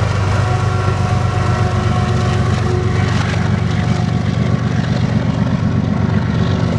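BNSF diesel helper locomotives of a loaded grain train going by at close range, their engines working under load in a loud, steady low drone over the rumble of wheels on the rails.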